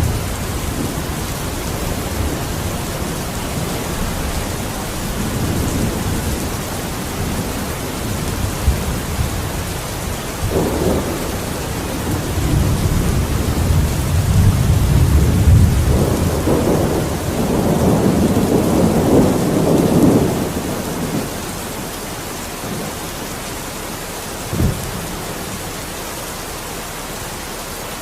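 Steady rain with rolling thunder: low rumbles build and swell through the middle, then die away. A short, sharp low thump comes near the end.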